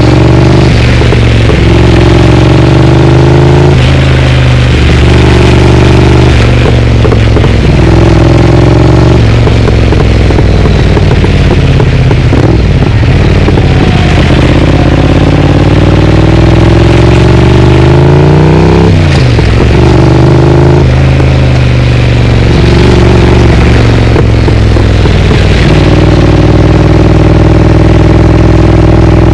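Triumph Speed Twin parallel-twin engine through an aftermarket Vance & Hines exhaust, accelerating through the gears: the pitch climbs and drops back at each shift, several quick shifts, then one long pull in the middle. Near the end it settles into a steady cruise.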